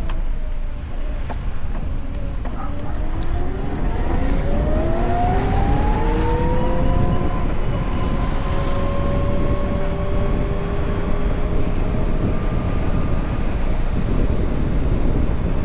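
Electric motorcycle motor whining as it accelerates, its pitch rising over a few seconds and then holding steady at cruising speed, over a constant rumble of wind and road noise.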